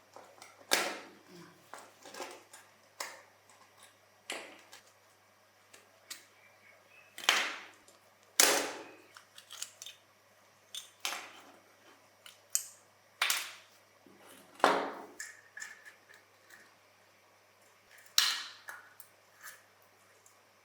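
Sharp, separate clicks and clacks of small hard parts of a die-cast toy truck being handled on a work surface, coming at irregular intervals about once a second. Each one rings briefly.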